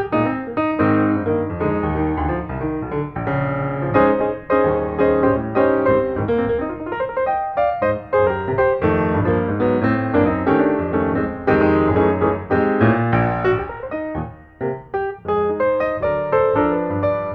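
Background piano music: a steady stream of piano notes with chords underneath.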